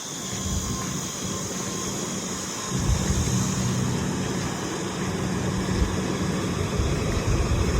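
Truck engine running steadily, getting louder about three seconds in.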